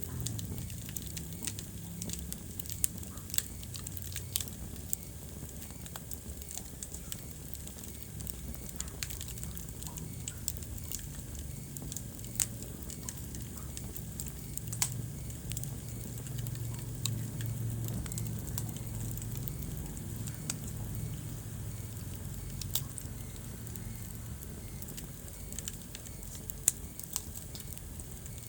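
Wood fire crackling in a fireplace: frequent sharp snaps and pops over a low steady rumble of burning, with a few louder pops standing out.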